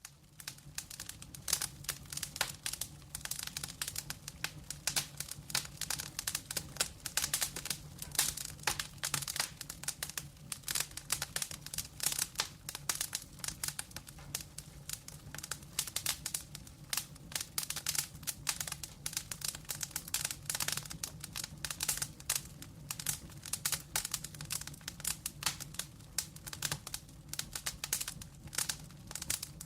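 Wood fire burning in a fireplace: dense, irregular crackles and pops from the logs over a low steady hum. It comes in from silence right at the start.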